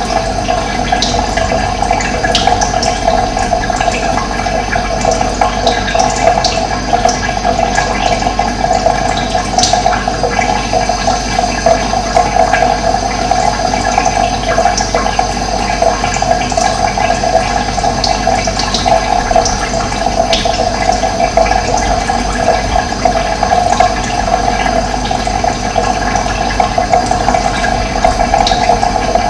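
Running water rushing steadily, with occasional short high bird chirps over it.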